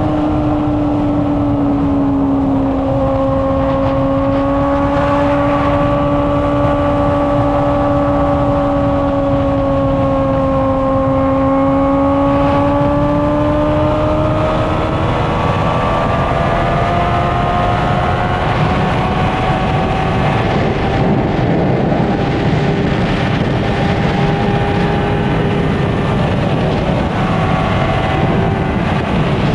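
Honda CBR600RR's inline-four engine and exhaust at a steady high-rpm cruise, its pitch holding nearly level with slight drifts, under a constant rush of wind noise. In the second half the engine tone recedes and the rush of noise dominates.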